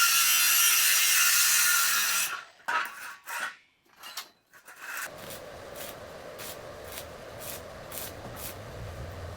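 Hand work on the banana cutter's metal frame. A loud harsh rasping noise runs for about two seconds and stops suddenly, followed by a few short rasps, then steady rubbing or filing strokes about two a second.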